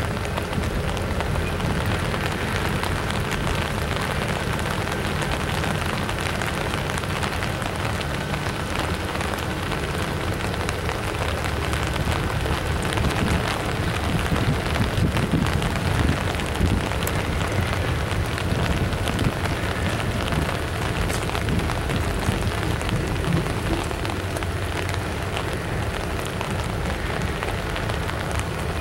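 Intermodal freight train rolling slowly over a steel girder bridge: a steady, dense clatter of wheels on rail over a low rumble.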